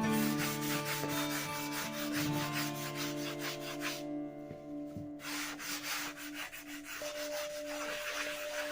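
Rapid, rhythmic rubbing strokes on wood, like hand sanding, pausing for about a second midway, over background music with long held notes.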